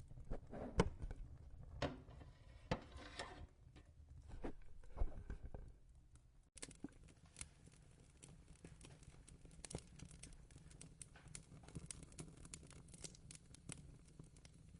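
Faint, irregular crackling and ticking, typical of a wood fire, with a few louder knocks and a rustle of handling in the first half. After a sudden change partway through, only scattered light crackles remain.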